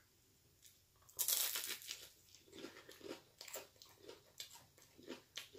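A crunchy bite into a crispy shrimp purse ("money bag") about a second in, then chewing with many small, irregular crunches.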